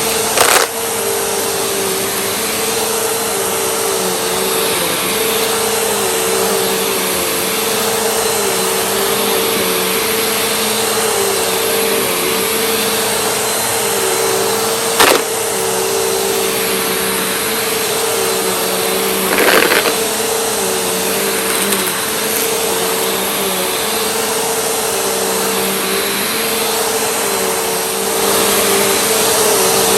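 Vacuum cleaner running steadily with a motor hum and a hiss of suction, broken by a few sharp knocks and one brief rattling burst. It gets a little louder near the end.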